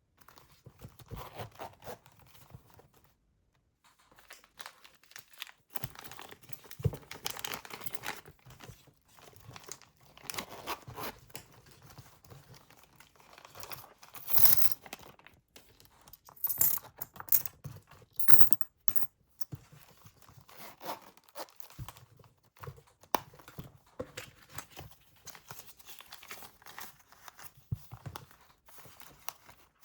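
Objects being handled by hand: irregular rustling and crinkling, with sharp knocks and clicks now and then, the loudest about halfway through.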